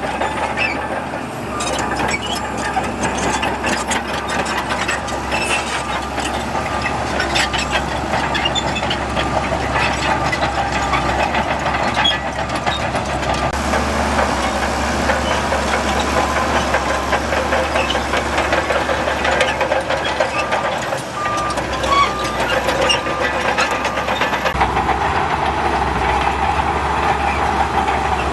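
Diesel engines of heavy earthmoving machinery (a bulldozer and dump trucks) running steadily, with many short metallic clanks and clicks throughout.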